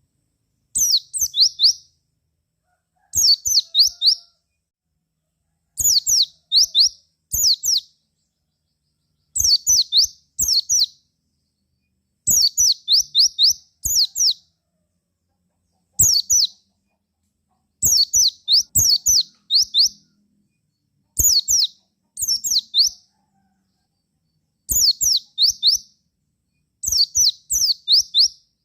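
White-eye (pleci) song: short bursts of three to five rapid, high, downslurred chirps, repeated about every two seconds.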